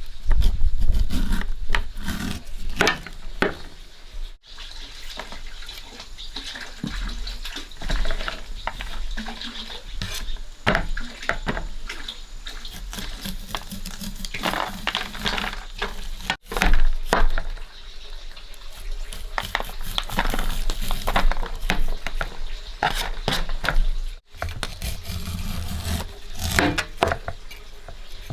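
Water running and splashing, with scattered knocks and clatters of handled objects, broken by a few abrupt cuts.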